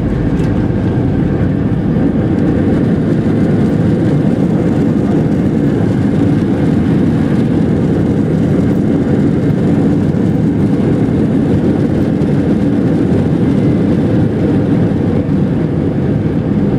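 Steady, loud cabin rumble inside an Airbus A320-212 from its CFM56 engines and airflow, holding level with no rise or fall.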